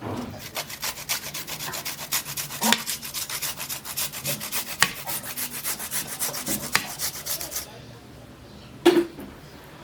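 Vegetables being grated on a hand grater: rapid, even scraping strokes, about five a second, that stop about three-quarters of the way through, then a single sharp knock.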